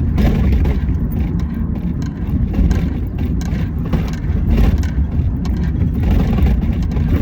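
Loud, steady low rumble with frequent short crackles and knocks throughout.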